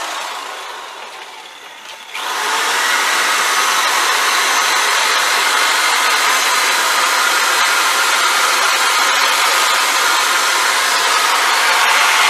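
Electric drill fitted with a wire brush, winding down and then starting up again sharply about two seconds in, running steadily as the brush scours rust off an old metal fishing reel.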